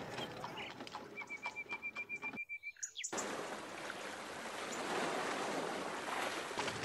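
A bird chirping in a quick, even trill of about ten high notes, then a brief break. After the break comes a steady, even outdoor background noise.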